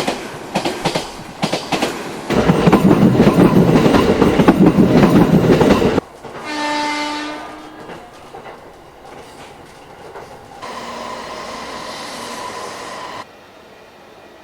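A train passing close at speed, a loud rush with rapid wheel clatter that cuts off suddenly, then a train horn sounding once for about a second and fading, followed by quieter rail running noise.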